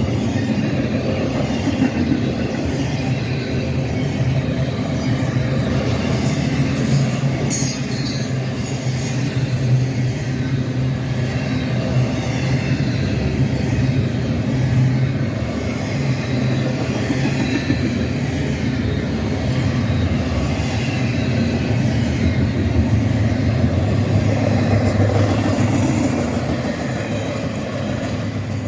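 A freight train rolling past, its railcars and wheels on the rails making a steady rumble, with a brief high screech of wheel on rail about seven seconds in.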